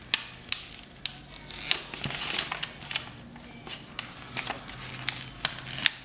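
A sheet of paper being folded and creased by hand: scattered sharp crackles and crinkles, with a longer rustle of paper sliding about two seconds in.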